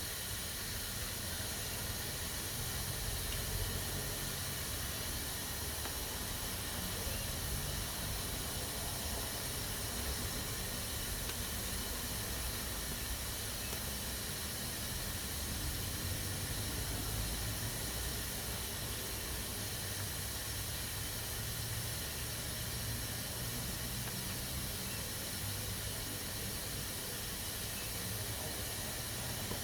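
Pressure cooker venting steam through its valve, a steady hiss with a low rumble underneath.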